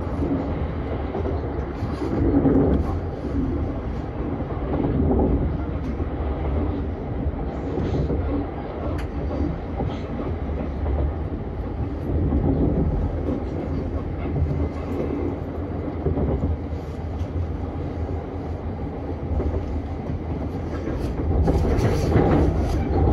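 Vienna S-Bahn electric train running, heard from on board: a steady low rumble of wheels on track that swells and eases every few seconds, with occasional faint clicks over the rails.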